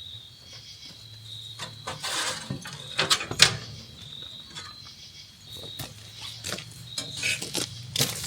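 Sharp metallic clicks and knocks from hands working on a band sawmill's blade and frame. A short cluster comes about two to three and a half seconds in, over a faint low hum and a steady high tone in the background.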